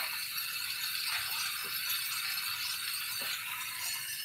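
Chicken breasts frying in butter in a skillet, a steady sizzle with a few light crackles and clicks.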